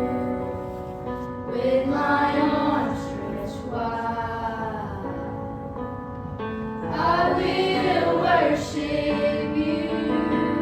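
Youth choir singing a slow song, the phrases swelling about two seconds in and again about seven seconds in.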